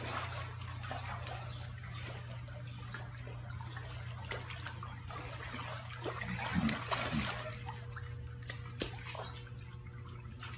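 Swimming-pool water lapping and splashing as a young lion swims and is lifted out of the water, with small drips and trickles over a steady low hum. A couple of short low sounds come about six and a half seconds in.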